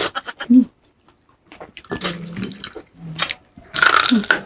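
Close-miked wet eating sounds from someone eating salmon sinigang: lip smacks and sucking clicks, with a longer slurp near the end.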